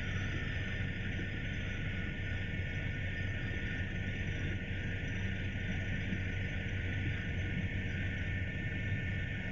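Helicopter engine and rotor noise heard from inside the cabin: a steady drone with a low hum and a thin, high, even whine over it.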